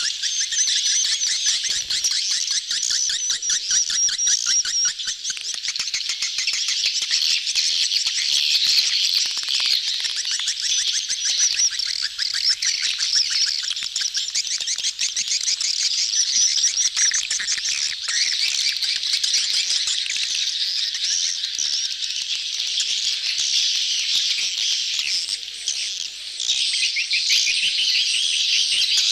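A crowded colony of swiftlets twittering together in a dense, continuous mass of fast, high chirps. These are the crowding, courtship calls of breeding birds, played as a lure sound to draw swiftlets into a nesting house.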